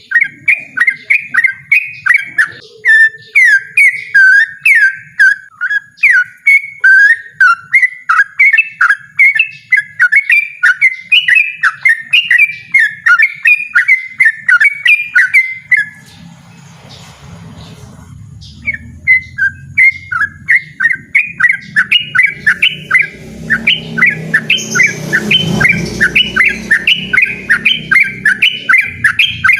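Yellow-vented bulbul (trucukan) singing a long, loud run of fast repeated chirping notes, about three a second. The song pauses for a few seconds past the middle, then resumes. A low rumbling noise sits beneath the song in the second half.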